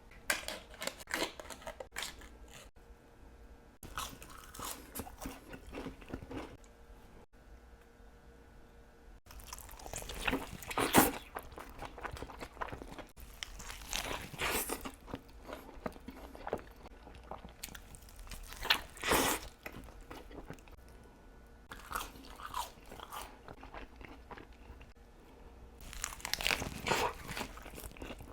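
A person biting into and chewing Chick-fil-A food. The bites and chews come in bunches every few seconds with quieter pauses between them, and the loudest come about eleven seconds in and again near the end.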